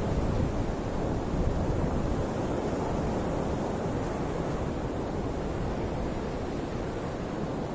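Ocean surf: a steady, continuous rush of waves with a deep low rumble, slightly louder in the first second or so.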